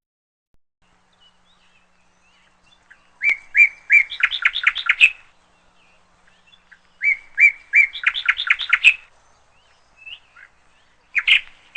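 A small bird chirping: two matching phrases, each a few spaced chirps followed by a fast run of notes, about four seconds apart, with another burst of chirps starting near the end.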